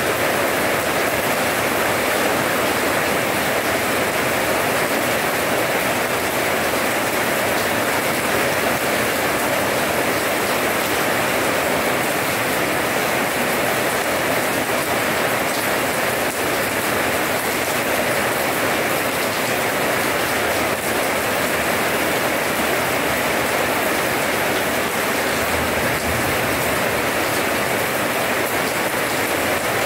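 Steady rain falling and splashing on wet paving blocks.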